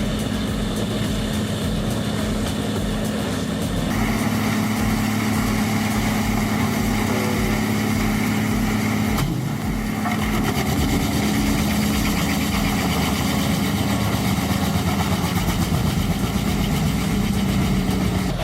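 Large diesel engine of a Bandit Beast 4680 wood grinder running steadily, its tone changing abruptly about four and nine seconds in as the shot changes.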